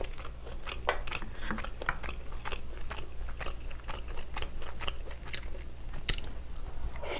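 Close-miked chewing of meatball spaghetti in tomato sauce: irregular wet mouth clicks and smacks, several a second.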